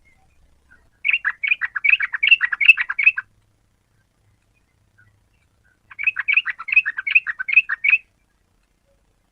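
Yellow-vented bulbul (trucukan) song: two phrases, each a rapid run of short chattering notes lasting about two seconds, the second starting about three seconds after the first ends.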